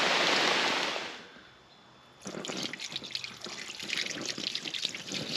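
Heavy rain hissing steadily, fading away a little over a second in. After a brief lull, irregular dripping and splashing of water with many small crackling drops.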